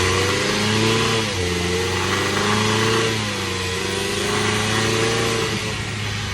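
2022 Ford Bronco's 2.3-litre turbocharged four-cylinder engine running, its pitch climbing and then dropping back about three times.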